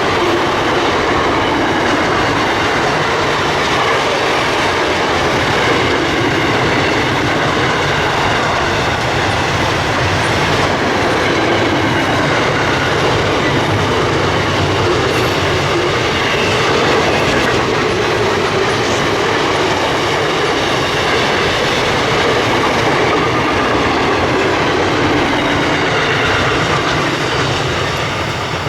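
Freight train wagons rolling past close by: a loud, continuous rumble of steel wheels on the rails with a faint high wheel squeal over it. It eases off slightly near the end.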